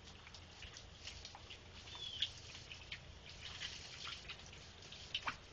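Rain pattering and dripping, with scattered faint drop ticks and a brief high squeak about two seconds in.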